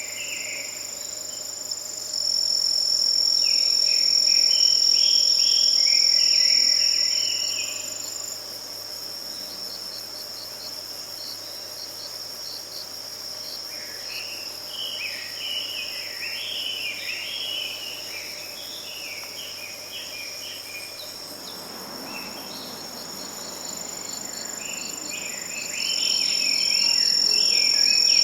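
Forest ambience of insects, likely crickets, trilling continuously at a high steady pitch, louder for the first several seconds and again near the end. Intermittent bursts of short chirping notes run over it.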